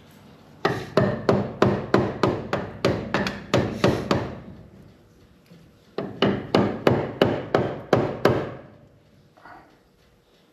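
Hammer blows tapping a wedge in between the cylinder head and the block of a 1927 Dodge Brothers engine to break the stuck head loose. A quick run of about a dozen strikes, three to four a second, then a pause of about two seconds, then about eight more.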